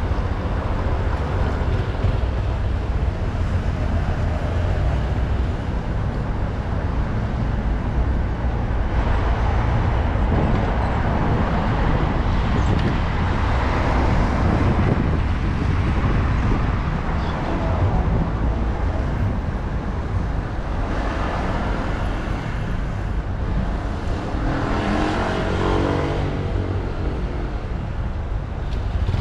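Wind rumbling over a bicycle-mounted GoPro's microphone while riding through road traffic, with cars running past. Near the end a passing vehicle adds a short shifting tone.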